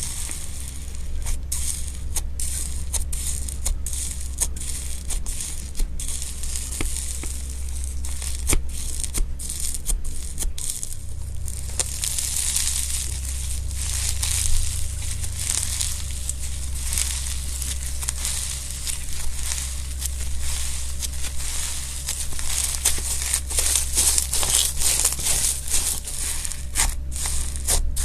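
Slime being squeezed and pulled by hand, giving a dense run of small crisp crackles and tearing sounds. It gets busier and louder about halfway through.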